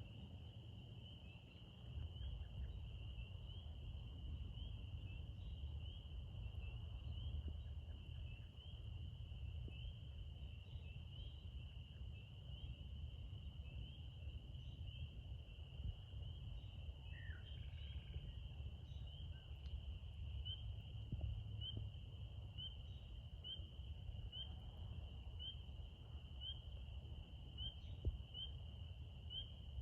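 Insects trilling in a steady, high, continuous chorus, with a short chirp repeating about once a second, over a low steady rumble. A single lower call is heard once about halfway through.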